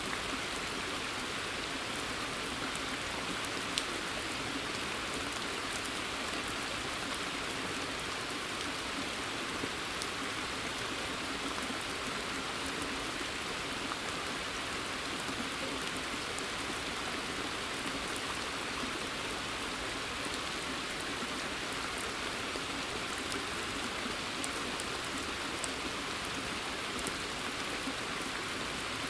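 Steady rain falling in woodland and onto a pond's surface, with scattered sharper drops heard as brief clicks.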